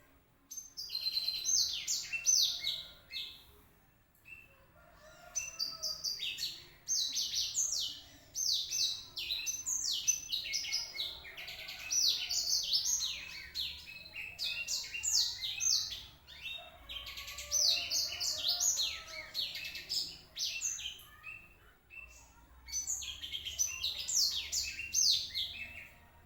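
Blackthroat (black-throated canary) singing a fast, warbling song of quick high sweeping notes, delivered in several long phrases with short pauses between them; the bird is described as fully 'master', a trained songster with a finished song.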